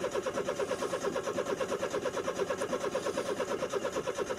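Vehicle engine on a cold start, heard from inside the cab: an even, rhythmic pulse of about five or six beats a second.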